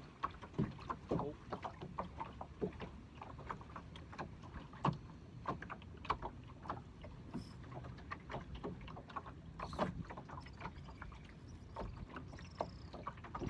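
Water slapping and lapping against a small boat's hull, with many irregular light knocks and clicks over a steady low rumble.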